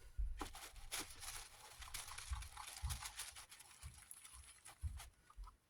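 Scattered light clicks, scrapes and soft thumps of small desk-fan parts being handled and turned over, with the motor housing under inspection.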